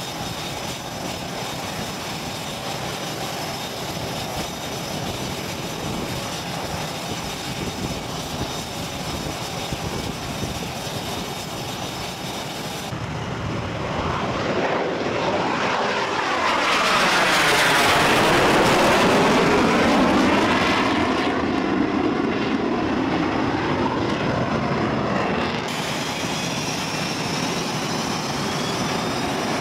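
Aircraft engine noise: a steady drone, then after a cut an aircraft passes low and close, swelling to its loudest a little past halfway and fading again.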